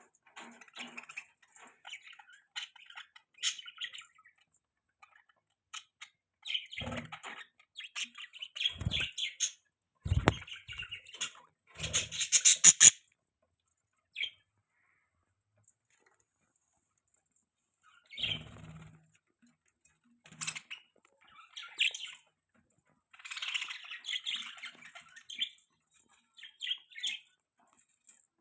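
Budgerigars chirping and chattering in irregular bursts, with a loud squawk about halfway through followed by a few seconds of quiet before the chatter resumes. A few short dull thuds come among the calls.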